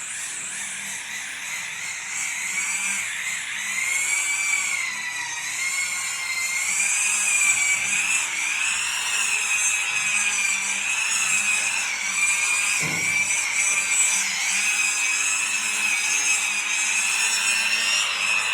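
Power tool motor running with a high whine whose pitch drifts slowly up and down as the load changes, with a brief low knock about two-thirds of the way through.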